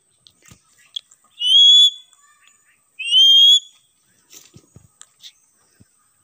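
Pet parrot giving two loud whistles, each rising in pitch, about a second and a half apart, with faint clicks and taps around them.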